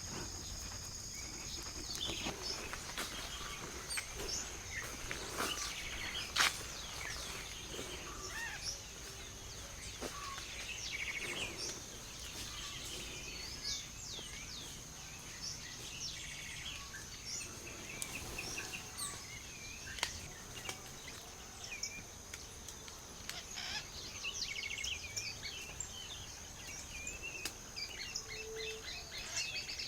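Forest ambience: many small birds chirping and calling in short, quick phrases over a steady high-pitched whine, with a few sharp clicks here and there.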